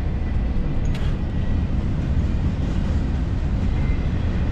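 Forge running with a steady low roar, with one faint light tap about a second in.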